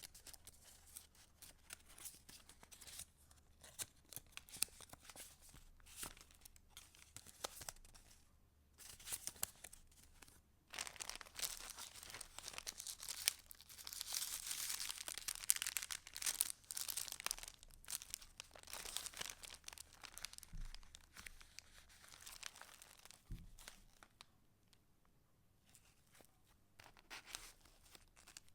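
Paper pages of a handmade junk journal being turned and handled: rustling, crinkling and soft clicks in uneven spells. It is busiest from about eleven to seventeen seconds in and grows quiet for a stretch near the end.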